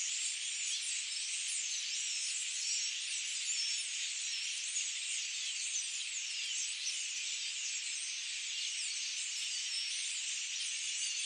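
Dense chorus of many forest birds chirping and trilling at once, their overlapping calls merging into a steady high-pitched wash.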